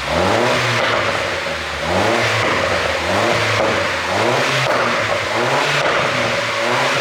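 MINI Cooper S R56's 1.6-litre turbocharged four-cylinder engine being blipped over and over, each blip a short rising rev that falls back, about one a second or a little faster. Between the blips the exhaust crackles and pops on the overrun, the effect of its ECU pop-and-crackle tune.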